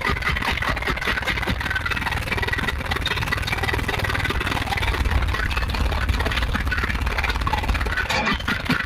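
Car audio subwoofers playing very loud, steady bass, with a dense buzzing rattle over the low rumble.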